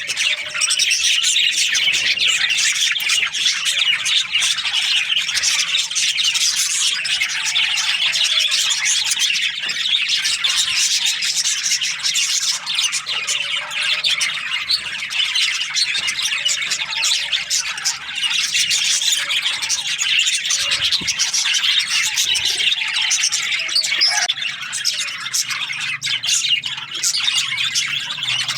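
A flock of budgerigars (budgies) chirping and chattering all at once: a continuous, dense mass of overlapping high chirps and warbles without a break.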